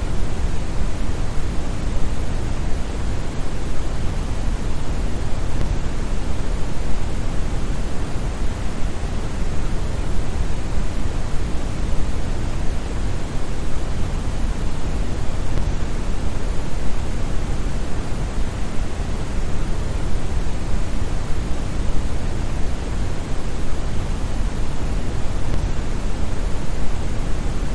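Steady brown noise: an even, deep rushing hiss with most of its weight in the bass and little treble, unchanging throughout.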